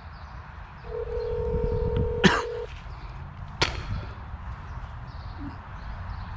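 Telephone ringback tone heard through a phone's speaker: one steady ring of about two seconds, the line ringing while the call waits to be answered. Two sharp clicks follow about a second apart, over a low background rumble.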